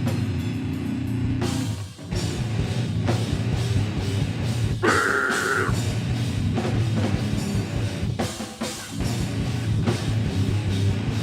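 Heavy metal band playing live: drum kit and distorted electric guitars, with a brief break near the two-second mark and a short held high note about five seconds in.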